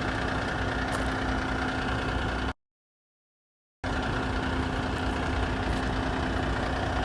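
Diesel engine of a new Kenworth T880 dump truck idling steadily, with an even hum. The sound cuts out completely for about a second partway through.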